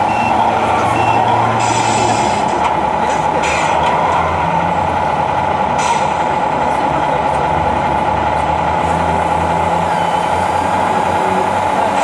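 Radio-controlled model trucks running, their sound modules playing a truck diesel engine with a steady whine over it, and short air-brake hisses about 2, 3.5 and 6 seconds in.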